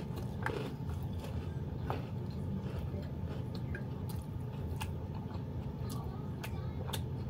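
A person chewing a mouthful of food with the lips closed, with scattered small wet mouth clicks and smacks, close to the microphone.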